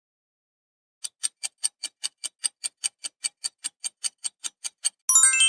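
Quiz countdown-timer sound effect: a clock ticking fast, about five ticks a second, after a second of silence. Near the end a bright ringing chime marks the end of the countdown.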